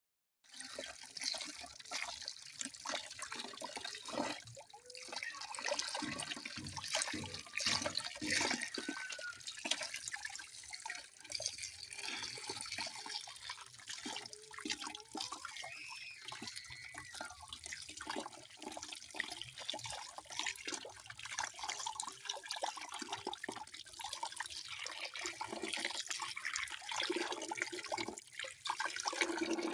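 Water running and splashing, a steady stream of small splashes and drips. It starts abruptly after a brief silence.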